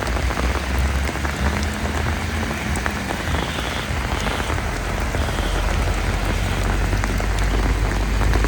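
Heavy rain pouring down: a steady, dense hiss of rain on hard surfaces, with many individual drops splashing and a low rumble underneath.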